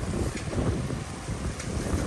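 Snowstorm wind buffeting the microphone, an uneven low rumble.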